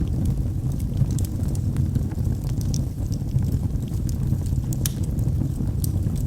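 Log fire burning in a fireplace: a steady low rumble of flames with sharp crackles and pops of the burning wood scattered through it, the louder ones about once a second.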